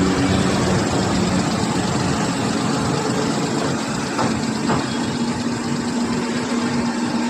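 Maruti Suzuki Alto's three-cylinder petrol engine idling steadily after a tappet adjustment, running smoothly with the earlier tappet noise gone.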